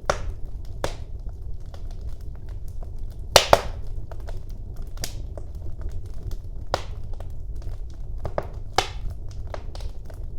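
Wood fire burning in a fireplace, with a steady low rumble of the flames and irregular crackles and pops from the burning logs; the sharpest pops come about a third of the way in and again near the end.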